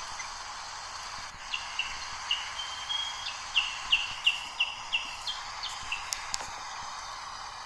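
A bird calling a rapid series of about a dozen short, high, down-slurred chirps, roughly three a second, ending in two sharp clicks. A steady hiss sits underneath.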